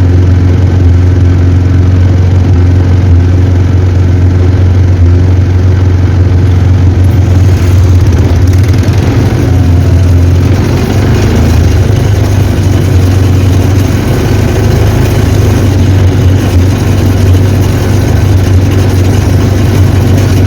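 Quad bike engine running steadily under way, a loud low drone, with added rushing noise from about seven seconds in.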